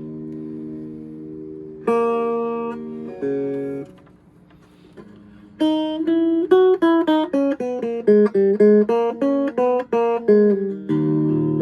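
Clean electric hollowbody guitar, a vintage Silvertone, played direct with no effects. A ringing chord fades out, two chords are struck, and after a short pause comes a quick run of single plucked notes, about six a second, ending on another chord.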